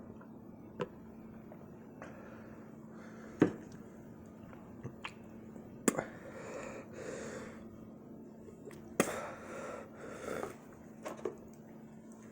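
A man breathing heavily, with long, breathy exhales about six and nine seconds in, as he suffers the burn of an extremely hot chili pepper. Several sharp clicks are heard, the loudest about three and a half seconds in, over a faint steady hum.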